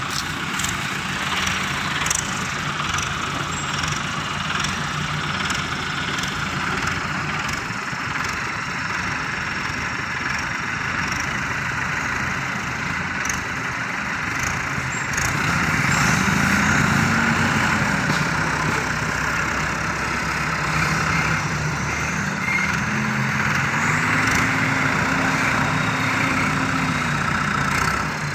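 Diesel engines working as tractors tow a stuck truck, revved up and back down twice in the second half.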